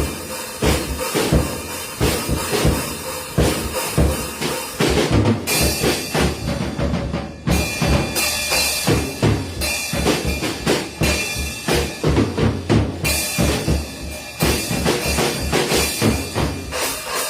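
Drum kit played in a fast, busy run of bass drum and snare hits, with cymbals washing in from about five seconds in.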